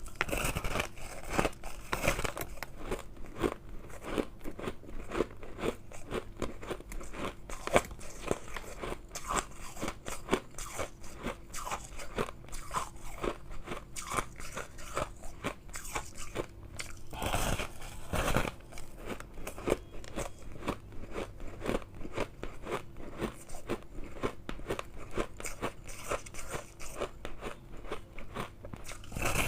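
Close-up crunching of refrozen shave ice being bitten and chewed: a dense run of crisp crunches, with heavier bites about a second in and again about seventeen seconds in.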